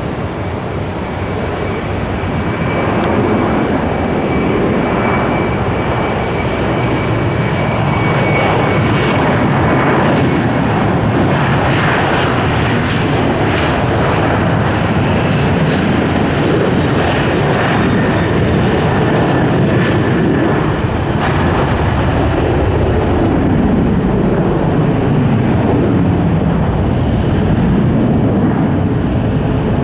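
Jet airliner's engines at takeoff power, a loud steady roar that builds over the first several seconds, with a thin high whine that slowly falls in pitch.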